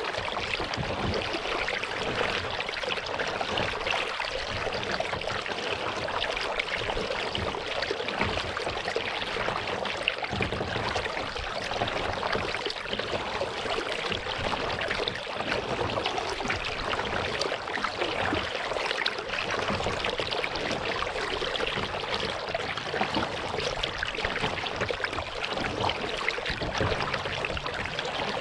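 Steady trickling and splashing of water around a paddled kayak, a fine continuous patter with no pauses.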